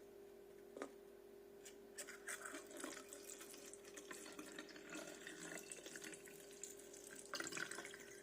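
Water tap running faintly into a bottle, starting about two seconds in, over a steady hum, with a single click just before.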